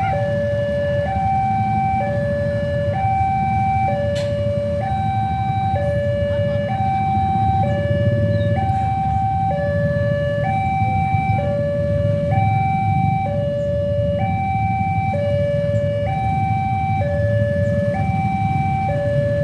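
Railway level-crossing warning alarm sounding, two electronic tones alternating high-low, each held just under a second, repeating steadily as a train approaches. A steady low rumble runs underneath.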